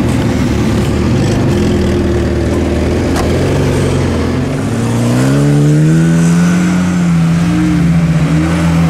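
Moskvich 412's four-cylinder engine pulling under load as the car climbs a sand hill. About halfway through it revs up and then holds at high revs.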